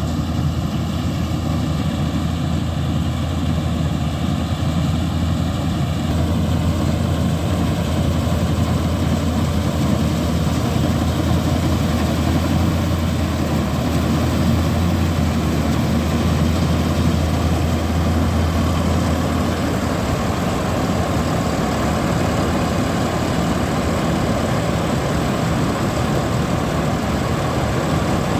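John Deere combine harvester's engine running steadily while harvesting rice. A strong low hum underneath drops away about twenty seconds in.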